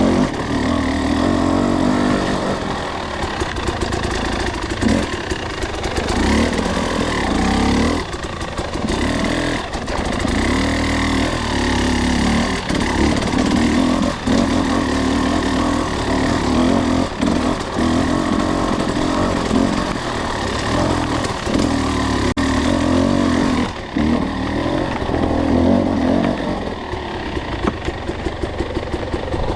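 Two-stroke enduro dirt bike engine pulling at low revs under load, short-shifted, the throttle opening and easing off every few seconds.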